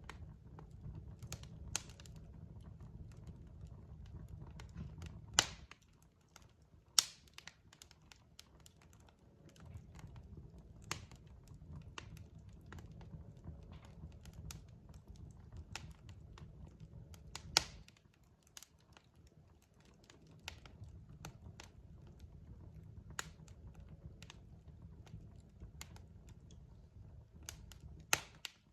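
Logs burning in a fireplace, crackling with irregular sharp pops, the loudest about five, seven and seventeen seconds in, over a low rumble that drops out twice for a few seconds.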